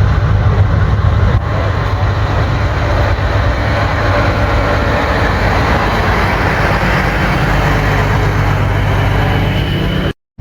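A big truck's engine running as it drives past, a steady low drone with noise that swells midway; the sound cuts off suddenly near the end.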